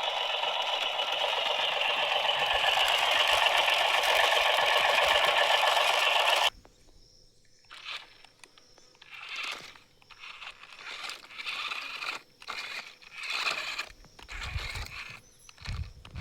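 Toy RC construction vehicle at work: a steady electric whirring that cuts off suddenly about six and a half seconds in, followed by irregular scraping and crunching.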